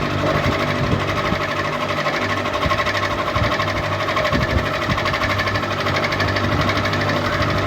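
Electric ceiling fan running: a steady low hum with a fast, even pulse over it.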